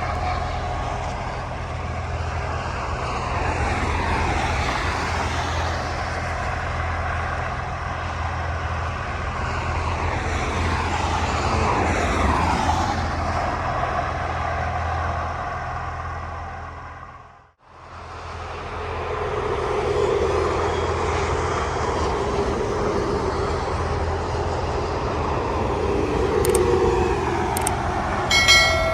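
Road vehicle noise: a steady low engine and tyre drone with slowly sliding tones like vehicles passing. It fades out and back in about halfway through, and a few sharp clicks come near the end.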